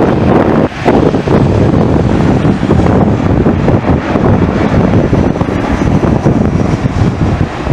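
Jet airliner's engines running as it comes in to land, heard under heavy wind buffeting on the microphone. A faint high whine slowly falls in pitch midway through.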